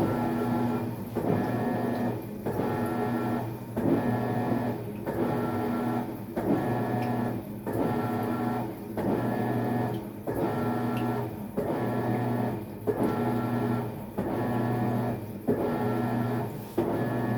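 Maytag MVWX655DW1 top-load washer churning during a tub clean cycle: the drive motor hums with a whine in strokes of about a second, each broken by a short pause, roughly one every 1.3 seconds as the wash action reverses direction.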